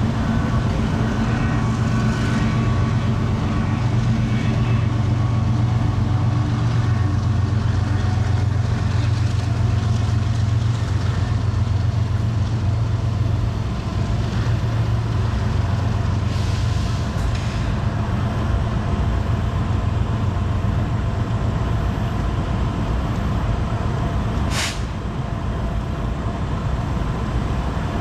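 Diesel freight locomotives running with a steady low engine drone. There is a brief high hiss about twenty-five seconds in.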